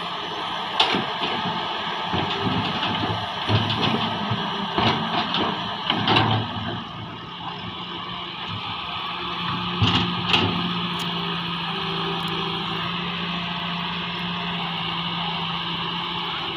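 Heavy excavator's diesel engine running steadily, with sharp knocks and clanks scattered through the first half and two more about ten seconds in.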